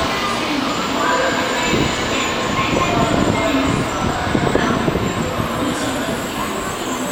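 500 series Shinkansen train moving out of the station, a steady rail running noise of its cars on the track.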